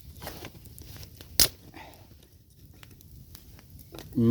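Thin willow sticks being handled and laid down side by side, with light scattered clicks of wood on wood and one sharp crack about a second and a half in.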